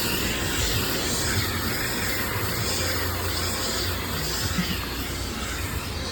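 Automatic car wash tunnel machinery running: a steady rushing noise with a low hum underneath.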